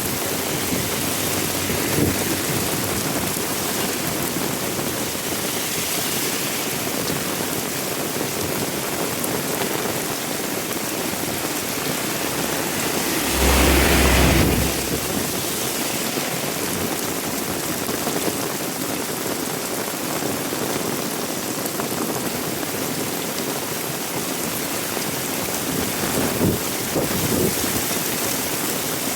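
Heavy rain falling steadily, a dense even hiss. About halfway through, a louder swell with a deep low rumble lasts about two seconds.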